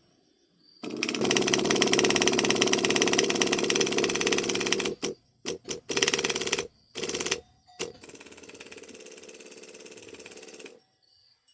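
Handheld power tool run in bursts with a fast, even rattle: one long run from about a second in until nearly halfway, several short blips, then a quieter, steadier run that stops shortly before the end.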